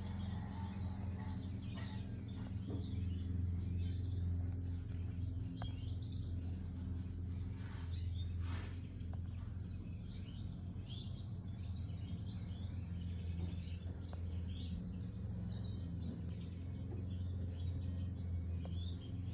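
European goldfinches chirping in short, scattered calls, with a louder cluster about halfway through, over a steady low hum.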